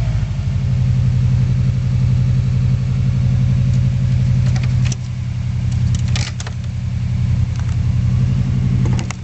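Subaru Impreza Turbo's turbocharged flat-four engine idling steadily, heard from inside the cabin. A few light clicks come about halfway through and again near the end.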